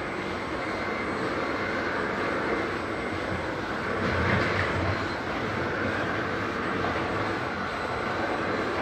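Radio-controlled model vehicle running: a steady mechanical whirring of motor and gears that swells briefly about four seconds in.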